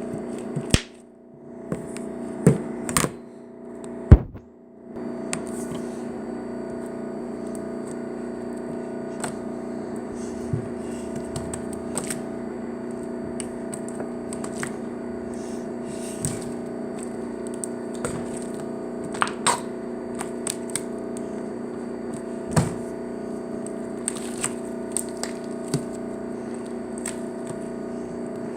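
Slime being played with by hand, giving scattered sharp clicks and pops over a steady background hum. The hum drops out twice in the first few seconds.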